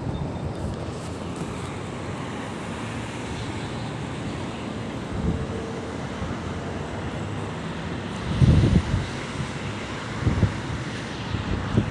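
Wind buffeting the microphone over a steady low hum and background rumble, with a few short dull thumps in the second half.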